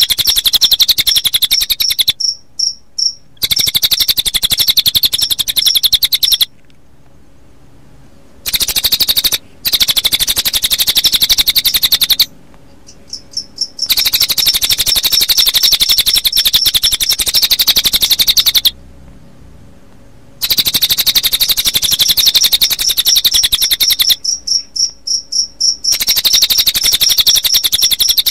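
A recorded cililin bird singing fast, high trills mixed with cricket chirping, in long bursts of rapid, evenly spaced chirps. It breaks off several times into short stutters or brief silences.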